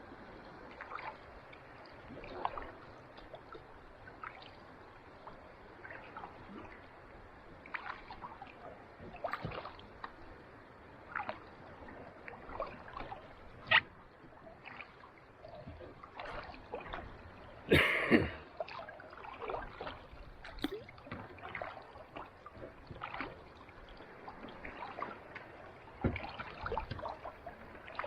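Kayak paddle strokes on calm sea water: irregular small splashes and trickling drips from the blade over a steady soft wash, with one louder, sharper splash about two-thirds of the way through.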